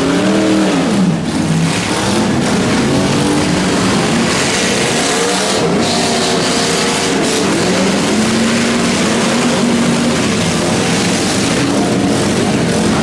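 Several pickup truck engines revving hard at once in a demolition derby, their pitch rising and falling as the trucks accelerate and back up.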